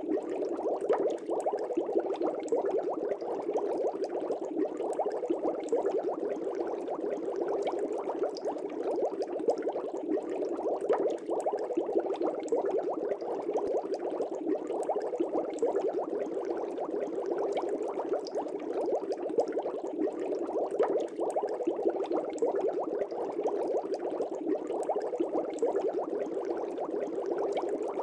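Bubbles streaming steadily through the water of a fish tank: a dense, even bubbling made of many small pops, with no pauses or changes.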